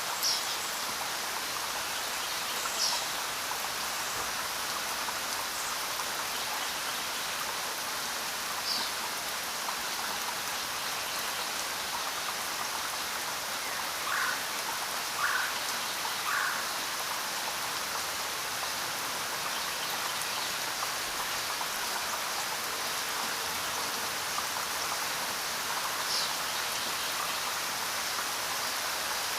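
Steady rain falling, an even hiss of drops, with a few short high chirps scattered through it and three brief calls close together around the middle.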